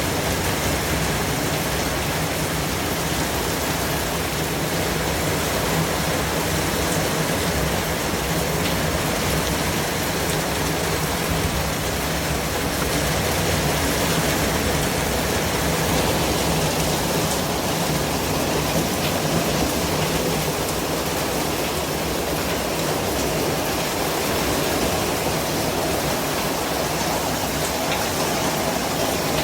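Steady white noise: an even, unchanging hiss that spreads across low and high pitches alike.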